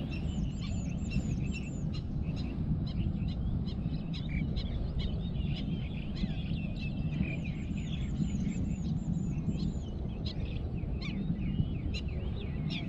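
Birds chirping and calling, with two runs of quick, high, repeated notes, over a steady low rumble.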